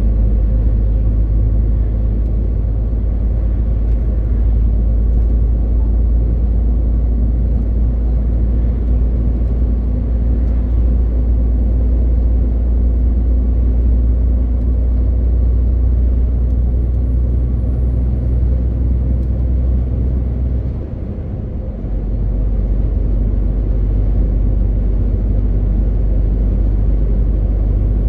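MAN TGX 18.520 truck's 12.4-litre straight-six diesel running under way, a steady deep engine drone with road noise. The sound briefly dips about three quarters of the way through, then returns.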